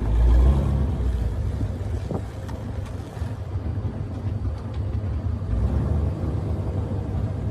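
Shelby GT350's 5.2-litre flat-plane-crank V8, breathing through a Corsa X-pipe and catless long-tube headers, with a steady low exhaust drone while driving. There is a brief louder surge in the first half second.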